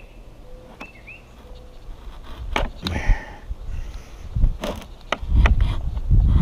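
Handling noise: scattered sharp knocks and clicks from about two and a half seconds in, then heavier low thumps and rumbling in the second half, as a watermaker membrane unit and its case are moved and worked on.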